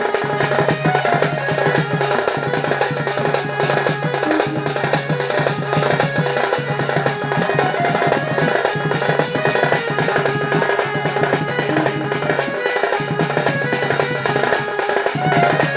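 Sambalpuri folk music for danda nrutya: drums playing a fast, dense beat, with a held low note that breaks off and returns a few times and short melodic notes above.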